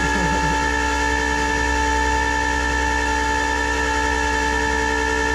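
Motor on a flatbed tow truck running with a steady, high whine at an unchanging pitch, working the bed or winch during loading.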